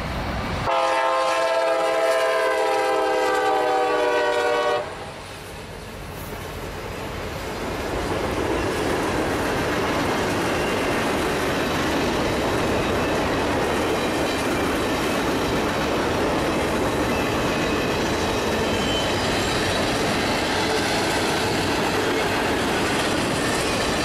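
Diesel freight locomotive's air horn sounding one long chord of several notes for about four seconds. After a short lull, a long freight train's cars roll steadily past on the rails.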